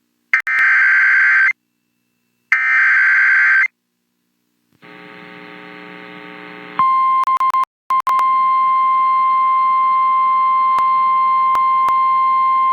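Emergency Alert System header: two harsh, screeching digital data bursts of about a second each, a second apart. Then a low buzzing hum, and about seven seconds in a steady, single-pitched alert tone that breaks up briefly a few times before holding.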